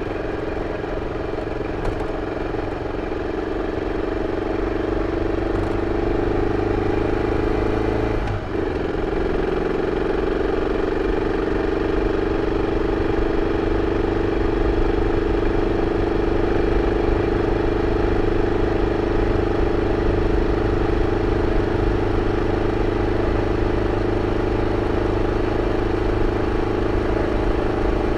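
BMW F 650 CS single-cylinder engine running through its original exhaust, building a little over the first few seconds, with a brief drop in the engine note about eight seconds in, then holding an even note.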